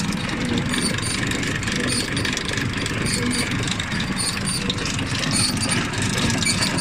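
Tractor running a John Deere 575 round baler on a test run: a steady engine and driveline sound with light repeated ticking from the baler's mechanism.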